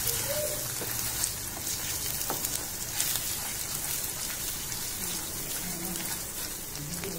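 Watermelon halwa sizzling in ghee in a nonstick frying pan while a wooden spatula stirs it, with a few light ticks of the spatula against the pan.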